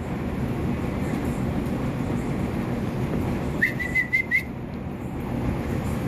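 Steady noise of falling rain, with a short high whistle that wavers slightly, under a second long, about three and a half seconds in.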